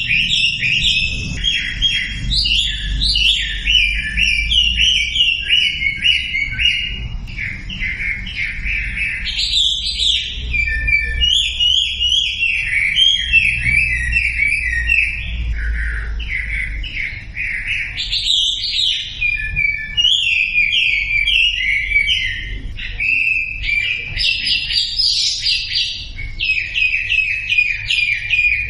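Wambi bird singing without pause: fast, varied runs of high chirps and trills, over a low steady hum. It is a masteran recording, a lure song for silent wambi birds.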